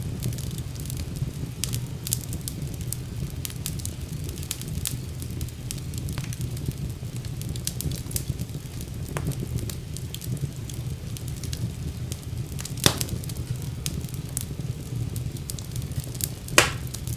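Wood fire in a fireplace crackling: a steady low rumble of burning under scattered small snaps, with two louder pops about two-thirds of the way through and near the end.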